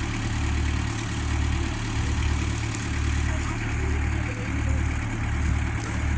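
Engine idling steadily with a low, uneven throb.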